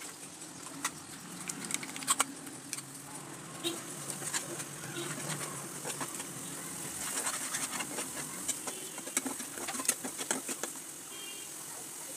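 Masala frying in a wok with a steady sizzle, while a spatula stirs and scrapes it, clicking and knocking against the pan.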